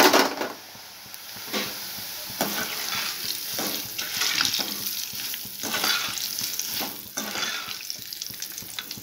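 Flattened rice (aval/poha) deep-frying in hot oil, sizzling as it puffs up, loudest right as it goes in. A perforated ladle stirs it in the metal pan with repeated scraping strokes.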